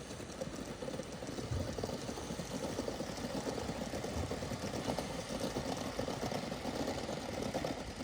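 Gauge 1 live-steam model locomotive running on the track: a steady, rapid, rough chuff of exhaust and rolling wheels, slightly louder from about a second and a half in.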